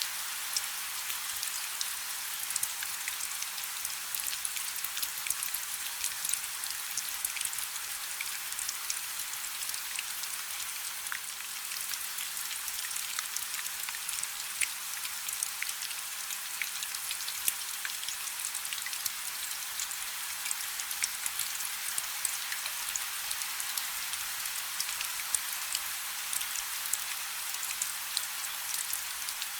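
Steady rain falling on a river: an even hiss of countless drops, with many small sharp drop hits standing out on top.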